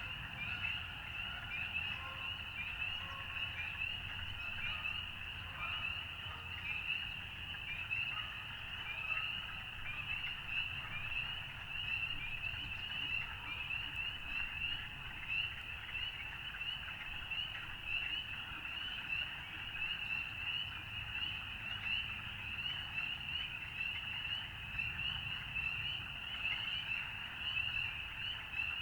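A dense chorus of frogs calling: short, high, upslurred peeps, many overlapping each second, going on steadily, over a faint low rumble.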